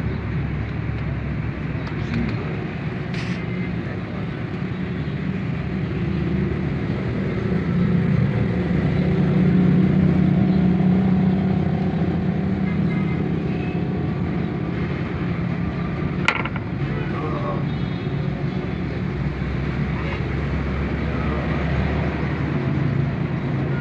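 Small two-stroke chainsaw engine running steadily, its speed and loudness swelling and easing back about eight to twelve seconds in, during carburetor adjustment. A sharp click comes about three seconds in and another about sixteen seconds in.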